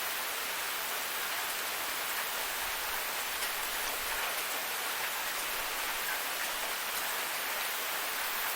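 Waterfall running, a steady rushing hiss of falling water with a few faint splashing ticks.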